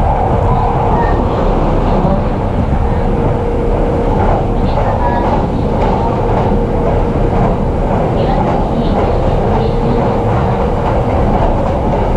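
Running noise inside a JR East E233-series electric commuter train under way: a steady rumble of wheels on the rails with a constant hum.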